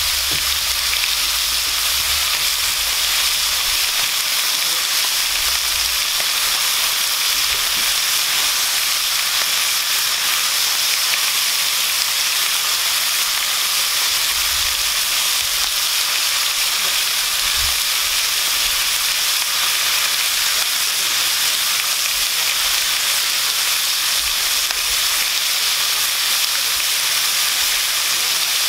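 Bacon strips and hash browns sizzling steadily on a Blackstone flat-top griddle, the bacon still raw and freshly laid on the hot steel.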